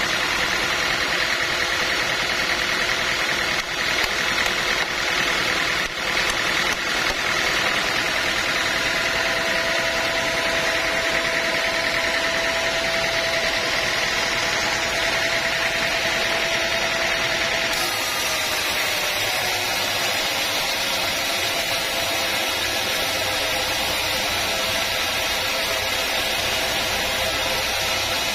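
Sawmill machinery running with a steady mechanical drone. A faint high whine holds through the middle, and the sound shifts about eighteen seconds in.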